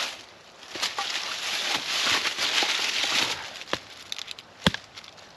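Rustling of dry brush and twigs while kindling is gathered, then two sharp clicks about a second apart, the second the loudest.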